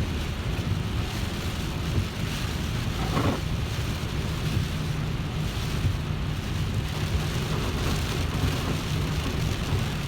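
A car driving in the rain: a steady low road rumble under the hiss of rain.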